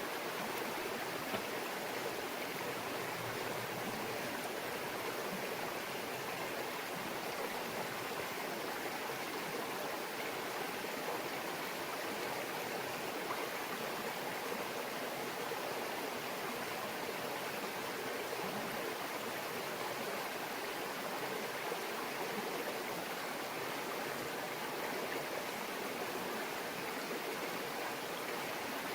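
Small mountain stream babbling steadily over stones.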